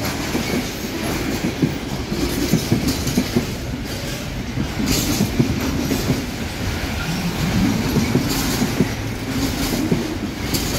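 Container train wagons rolling past, wheels knocking over rail joints in an irregular clatter over a steady rumble.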